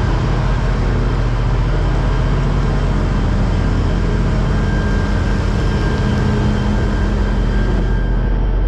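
A large engine running steadily: a constant low rumble with a steady hum over it.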